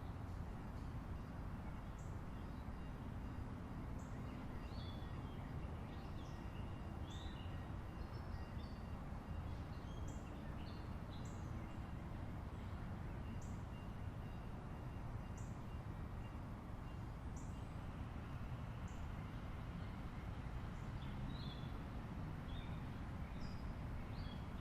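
Small birds chirping: short high calls, some repeating about every two seconds, over a steady low rumbling background.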